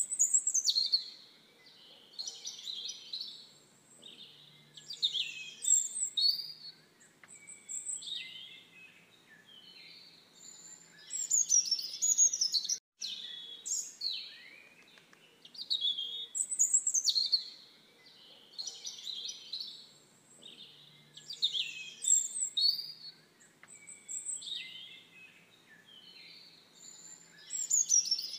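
Songbirds singing: short phrases of quick chirps and falling whistled notes, repeating every second or two, with a brief instant of silence about halfway through.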